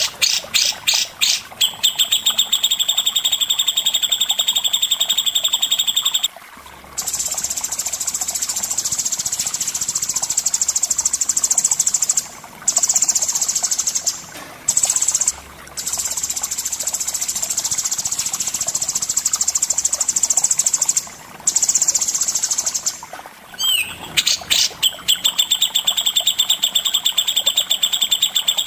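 A songbird singing long, rapid trills of fast-repeated buzzy notes, each run lasting several seconds and broken by brief pauses. Near the end a few sliding notes lead into a new trill.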